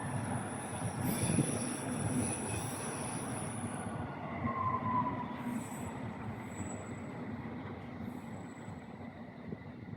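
A train passing on the rails, its running rumble gradually fading as it moves away, with a high thin wheel squeal over the first few seconds.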